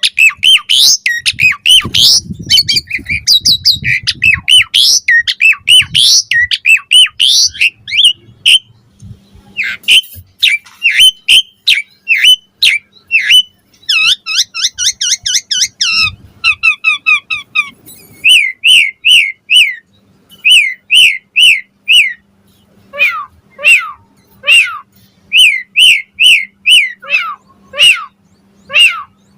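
Asian pied starling (jalak suren) singing a fast, varied song of whistles and harsh squawks; it starts as a dense jumble of notes and later settles into runs of repeated notes, about two a second.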